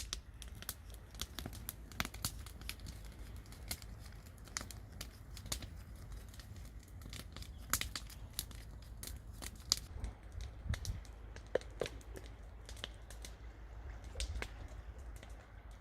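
Wood fire crackling, with many irregular sharp snaps and pops over a low steady rumble.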